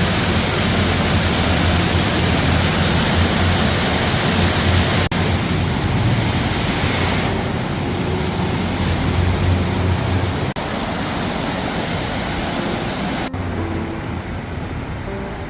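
Loud steady rushing noise, broken off abruptly three times and a little quieter after each break, with faint music tones coming in near the end.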